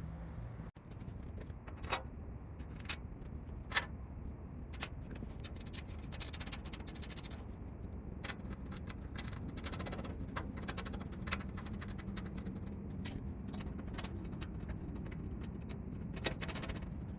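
Workshop handling noise: scattered light clicks and taps of tools and parts being worked, over a steady low background hum. The taps come a few at a time at first and more thickly later.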